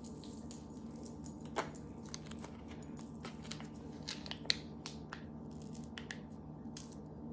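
Scattered faint clicks and crackles of small gingerbread-kit pieces and their packaging being handled, over a steady low hum.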